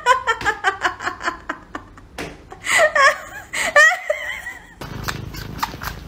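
A person laughing: a quick run of 'ha-ha' steps falling in pitch, then a second, wavering burst of laughter about three seconds in. Near the end it gives way to a low steady background with faint clicks.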